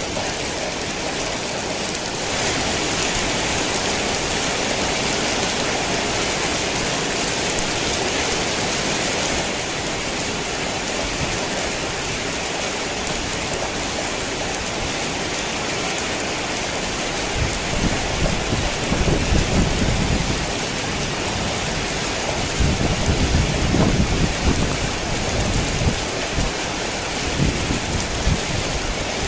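Heavy rain falling steadily, with irregular low rumbles coming and going through the second half.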